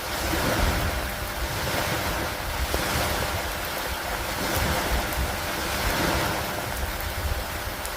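Steady rain falling on a wooden dock and lake water, a dense hiss that swells and eases every couple of seconds.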